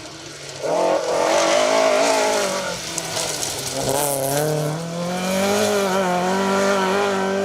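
Ford Escort MK2 rally car's engine revving hard on a stage. It gets loud about a second in, its pitch dips briefly twice as the driver lifts or changes gear, then rises steadily under full throttle.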